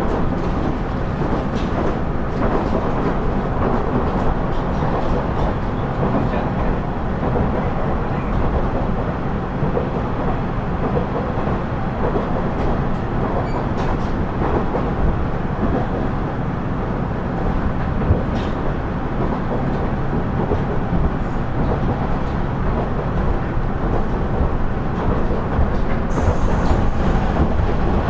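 KiHa 110 series diesel railcar running along the line: a steady rumble of engine and wheels on rail, with occasional sharp clicks. A high hiss lasts about two seconds near the end.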